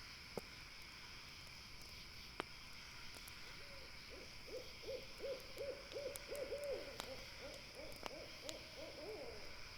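An owl calling a fast run of short, even hoots, about three a second, starting about three and a half seconds in and lasting some six seconds. A campfire's crackling pops a few times underneath.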